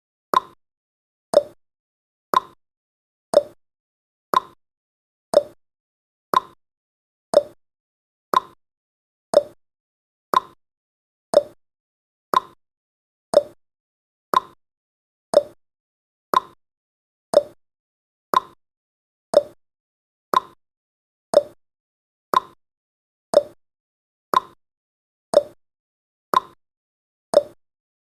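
Countdown timer's tick sound effect: a short, quickly fading tick repeating evenly about once a second.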